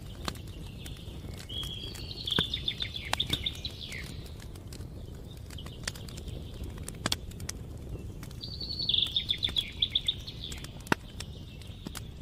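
Campfire crackling with scattered sharp pops, while a songbird sings two quick trilled phrases several seconds apart.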